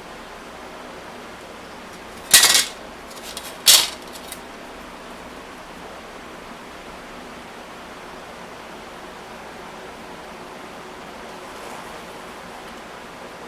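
Two short, scratchy marker strokes on canvas, a little over two seconds in and again about a second later, with fainter scrapes between, over a steady background hiss.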